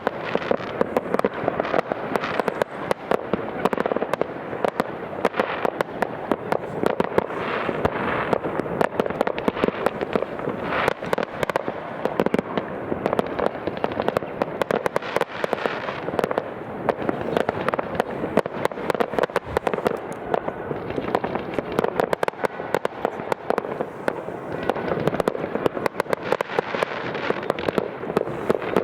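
New Year's Eve fireworks: a dense, unbroken barrage of bangs, pops and crackles from many rockets and firecrackers going off at once.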